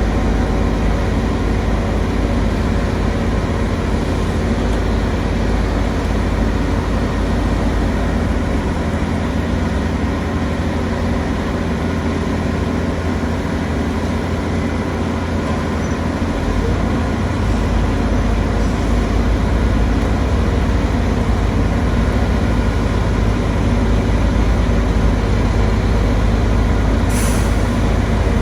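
Heavy diesel construction machinery running steadily, with a short hiss of released air near the end.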